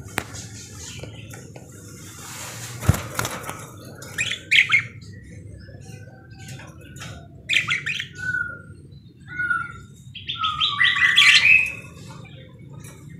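Budgerigar chirping and chattering in short phrases, with a longer run of chatter near the end; a single sharp knock about three seconds in.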